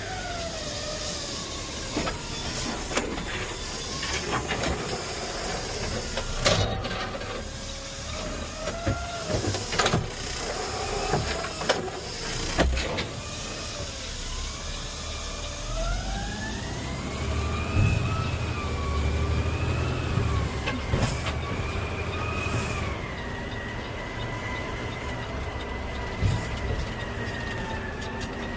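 Peterbilt 520 CNG side-loader garbage truck running, heard from the cab: a whine that falls in pitch at first, climbs about sixteen seconds in, holds high, and drops again near the end, over a steady low rumble. Scattered knocks and rattles come through in the first half.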